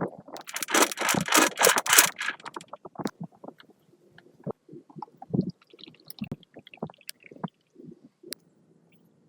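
Hand work on metal parts: a burst of rasping scraping for about two seconds, followed by scattered light knocks and clicks.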